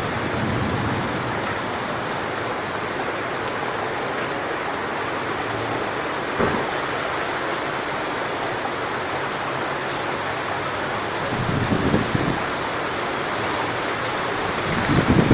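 Strong wind rushing steadily through coconut palm fronds. Gusts buffet the microphone with low rumbles about three-quarters of the way through and again near the end.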